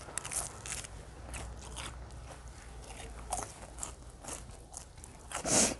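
A person chewing a mouthful of pan-fried pig-blood pancake, with irregular small wet clicks and crackles of the bite, and a louder short rush of noise near the end.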